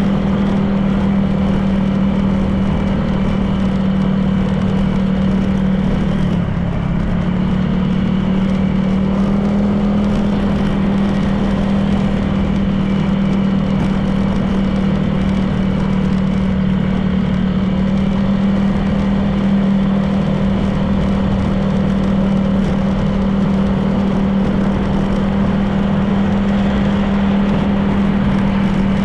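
Honda PCX 160 scooter's engine running steadily while riding, with road and wind noise underneath. The engine tone dips briefly about six seconds in, then settles a little higher.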